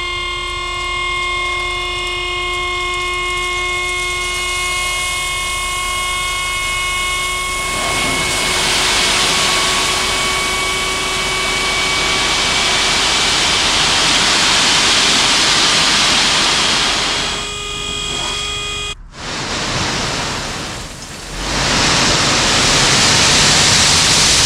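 A dump trailer's electric hydraulic pump is raising the bed, running with a steady whine. After about eight seconds a loud rushing noise takes over. It stops sharply once and then starts again near the end.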